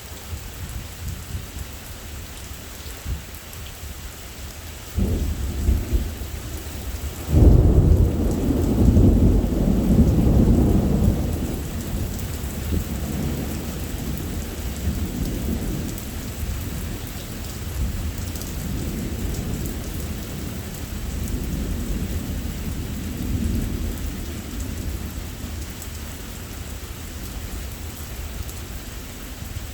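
Steady rain with thunder: a clap about five seconds in, a louder crash about two seconds later, then a long low rumble that fades slowly.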